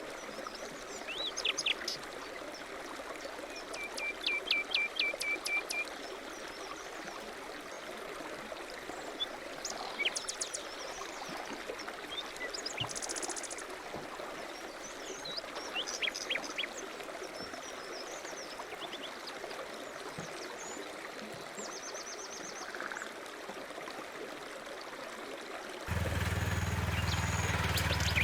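Small birds chirping and trilling now and then over a steady hiss. About two seconds before the end, a louder steady low hum, like a motor running, cuts in abruptly.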